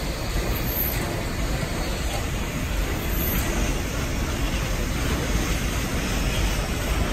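A string of railroad cabooses rolling slowly past on the next track, making a steady rumble of wheels on rail.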